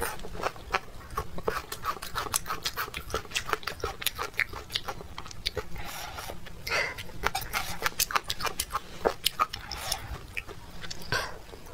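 Close-miked mouth sounds of a person chewing a chewy, spicy meat dish: a dense, irregular run of wet clicks and smacks, with a couple of longer, breathier smacks around the middle and near the end.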